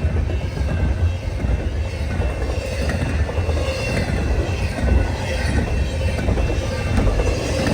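Long, fast freight train's cars rolling past: a steady rumble of wheels on rail with a faint high wheel squeal.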